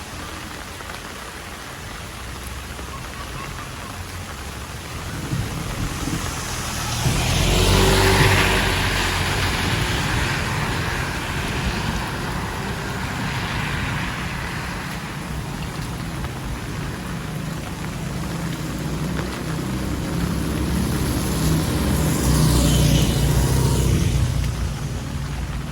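Heavy rain falling steadily. A vehicle passes on the wet road about a third of the way in, with a rumble and tyre hiss that rise and fade, and another passes near the end.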